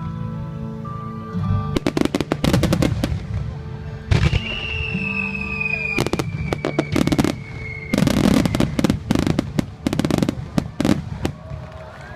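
Fireworks bursting in rapid volleys with crackling, over music playing throughout. The densest barrages come about two seconds in, around six seconds in, and from about eight to eleven seconds in.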